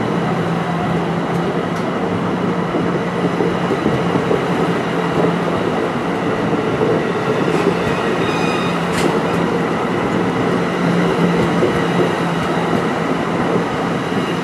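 NJ Transit commuter train running past close by, a steady, loud rush of wheels and machinery on the rails, with a brief high-pitched squeal about eight seconds in followed by a sharp click.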